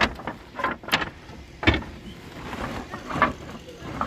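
Irregular knocks and clatters of wood being handled, about four sharp hits, the first right at the start and the loudest.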